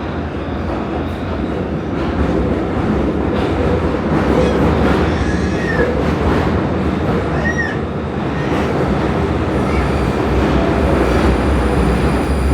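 Prague metro train running through the tunnel, heard from inside the car: a steady low rumble and hum, with two brief high squeals from the running gear in the middle.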